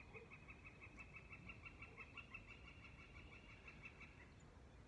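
A faint bird call: a long, even series of quick repeated notes, about eight a second, that fades out about four seconds in.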